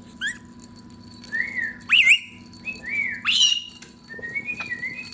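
Caique parrot giving a string of short whistled notes and chirps, some arching up and down in pitch, with a couple of louder, harsher squawk-like calls partway through.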